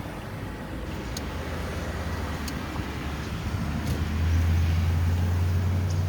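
Car engine and road noise while driving: a steady low hum that grows louder from about four seconds in.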